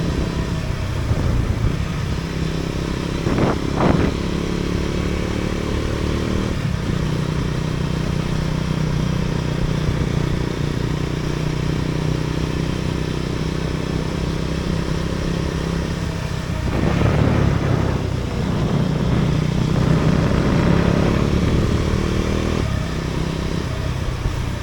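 A vehicle's engine running steadily on the move, its note dipping briefly a few times. There is a louder rushing sweep a little under four seconds in, and a longer one around seventeen seconds in.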